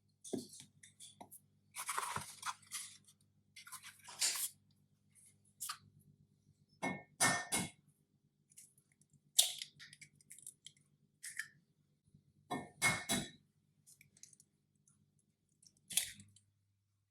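Someone chewing and crunching food in short irregular bites, with a couple of light clinks of cutlery or dishes over a faint low hum.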